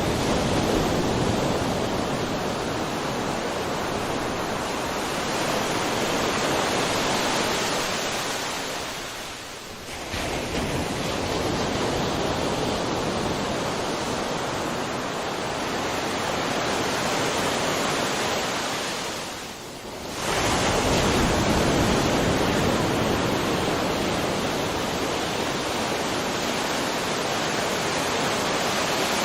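Ocean surf: a continuous wash of breaking waves, dipping briefly twice and surging straight back in.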